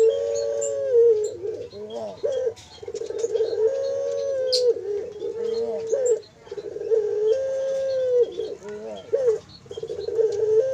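20-day-old puter (domestic turtle dove) chicks calling: about four long, steady, whining calls, each held for a second or two and wavering at its end. Faint high chirps from small birds sound behind them.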